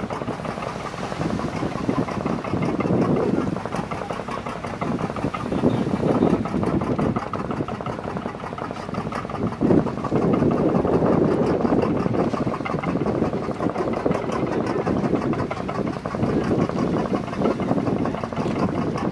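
Engine of a pompong, a small wooden motorboat, running steadily with a rapid knocking beat, swelling louder several times.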